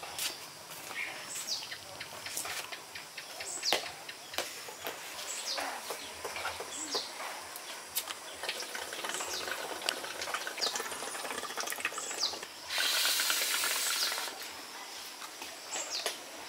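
A bird calls repeatedly in short, high chirps that fall in pitch, about one a second, over faint clicks and rustles. About 13 seconds in, a loud rushing hiss lasts about a second and a half.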